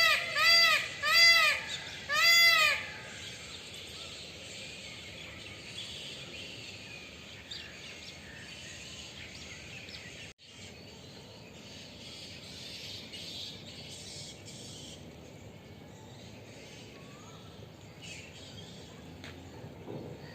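Indian peafowl (peacock) calling: a quick run of about four loud honks, each rising and falling in pitch, in the first three seconds. After that there is only faint outdoor background with scattered small bird chirps, and the sound drops out briefly about ten seconds in.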